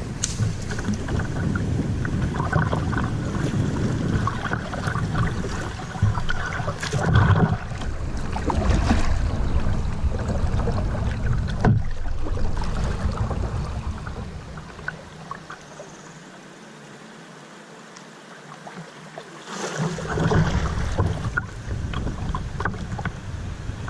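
Kayak on a fast flooded river: water splashing and paddle strokes, with wind rumbling on the microphone. The wind rumble dies away for a few seconds past the middle, then returns.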